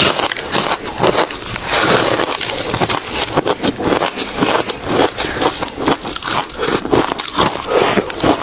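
Ice being bitten and chewed close to the microphone: a continuous run of quick, crackly crunches.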